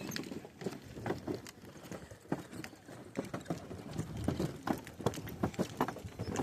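Footsteps knocking on a walkway: irregular taps, several a second, from people walking.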